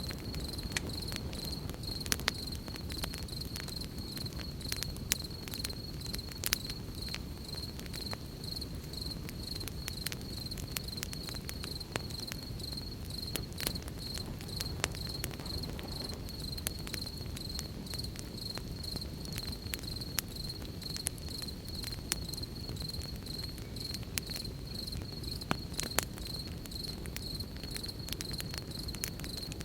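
Campfire crackling, with scattered sharp pops, over a steady high cricket trill and a low, even rumble.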